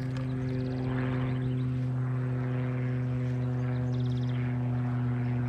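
A steady, droning hum at one unchanging pitch with several even overtones. Two short, high chirping trills come over it, about half a second in and again about four seconds in.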